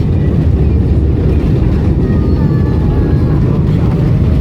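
Airbus A320 cabin noise: a loud, steady low rumble from the engines and the aircraft rolling on the runway after touchdown.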